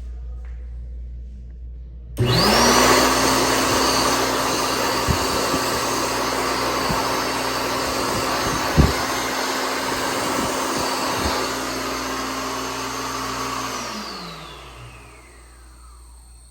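Slimdri electric hand dryer switching on abruptly. Its motor whine rises at once to a steady pitch under a loud rush of air. It runs for about eleven seconds, then cuts off and spins down with a falling whine.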